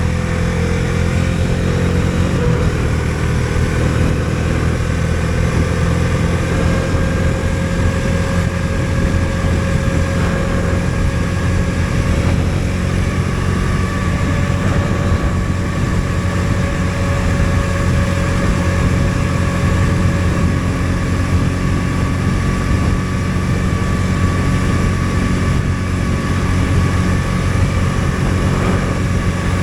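Bajaj Dominar 250's single-cylinder engine running steadily under way, heard from on board the motorcycle. Its note shifts slightly about two seconds in, then rises slowly as the bike gains speed.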